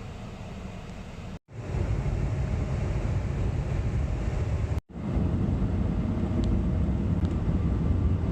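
Steady low rumble of a car on the move, broken by two sudden, very short drop-outs, about a second and a half and about five seconds in, after which the rumble comes back louder.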